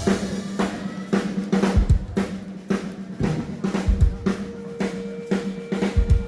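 Live band's drum kit playing a steady beat of snare and kick drum, with a low held note underneath. A second, higher held note joins about two-thirds of the way through.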